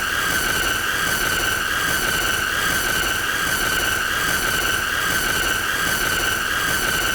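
A continuous, unchanging high-pitched squealing tone with a harsh edge of overtones and hiss, held without a break.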